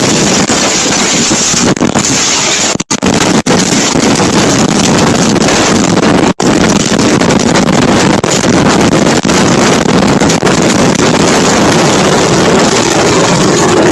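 Storm wind blasting the microphone in a loud, steady rush, cutting out for an instant about three seconds in, again just after, and about six seconds in.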